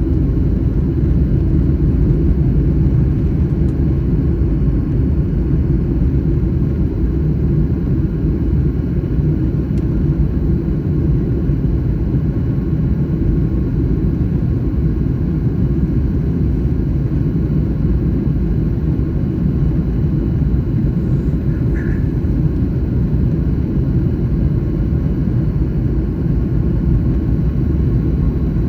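Steady low rumble of a Boeing 737 MAX 9 jet airliner, holding at an even level with no rise or fall.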